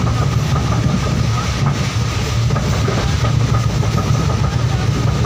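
Moving passenger train heard from inside the coach: a steady, loud running rumble with a thin steady whine above it.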